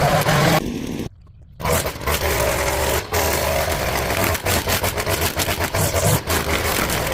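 Small engine of a grass-cutting machine running steadily with a rough, noisy drone; the sound cuts out for about half a second near the start, then resumes.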